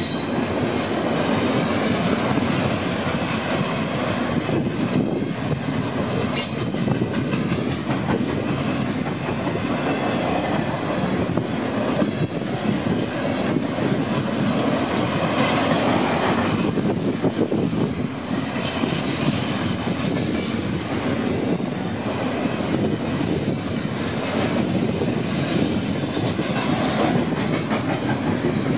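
Double-stack container freight cars rolling past: a steady rumble with rapid clatter of steel wheels over the rails, and one brief sharp click about six and a half seconds in.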